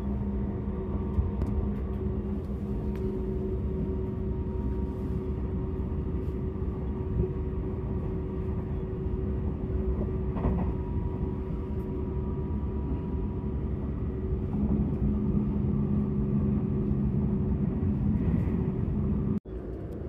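Seibu Laview 001 series electric train running, heard from inside the passenger cabin: a steady low rumble with a few steady humming tones on top, growing somewhat louder about two-thirds of the way through. It breaks off sharply near the end.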